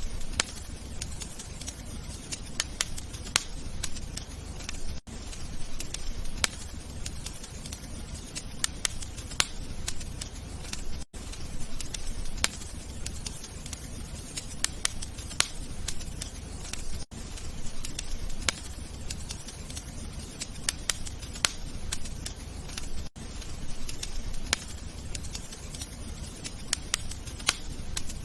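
Fireplace fire crackling: irregular sharp pops and snaps over a steady low rumble, with a brief gap in the sound about every six seconds.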